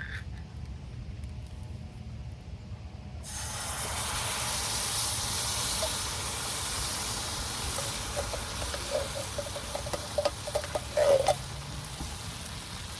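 Tomato bisque poured into a hot pot, starting to hiss and sizzle suddenly about three seconds in, then easing to a steadier sizzle, with a couple of short knocks near the end.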